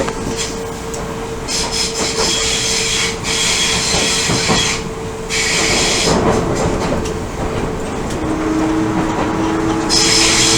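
Odakyu 1000 series electric train heard from inside the car while running. Wheels squeal in high stretches on curves, first at about one and a half seconds in and again near the end. A steady tone from the Mitsubishi GTO traction equipment runs underneath and drops to a lower pitch about eight seconds in.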